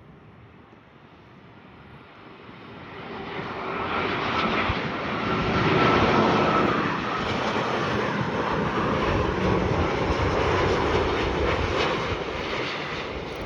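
Boeing 787 Dreamliner jet airliner on final approach passing by. Its engine noise swells to a peak about six seconds in, with a whine that drops slightly in pitch as it passes. It stays loud for several seconds, then begins to fade near the end.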